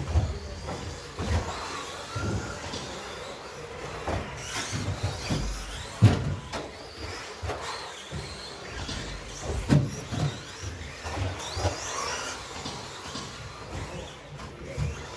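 Several RC stadium trucks with 13.5-turn brushless sensored motors racing. Their high-pitched motor whines rise and fall as they speed up and slow down, and frequent thumps run under them, the sharpest about six seconds in and another near ten seconds.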